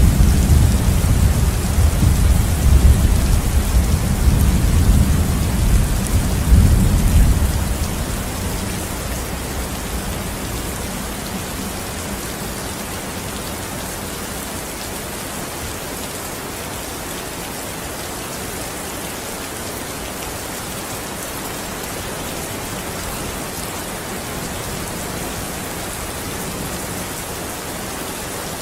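Steady rain falling, with a low roll of thunder over the first several seconds that dies away about eight seconds in, leaving an even hiss of rain.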